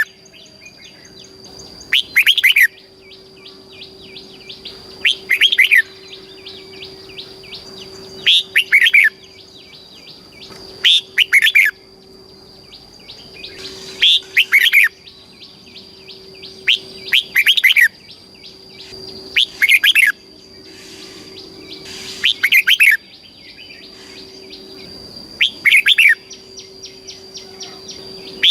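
Red-whiskered bulbul singing: short, loud phrases of several quick notes, about nine of them, repeating roughly every three seconds. A steady high-pitched tone and a faint low hum run underneath.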